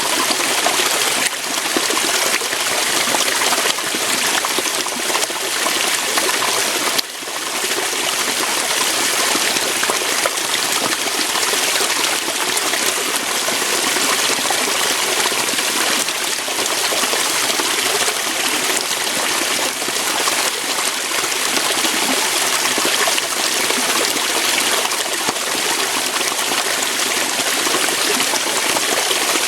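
Waterfall: water flowing and splashing over rocks in a steady, even rush, with a brief dip in level about seven seconds in.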